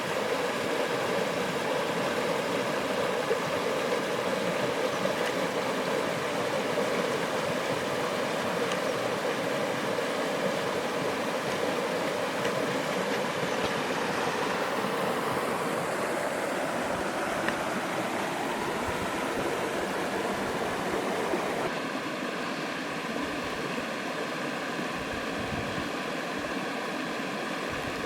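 Water rushing steadily over the falls and down the creek, a continuous hiss with no breaks; its tone shifts slightly and drops a little about three quarters of the way through.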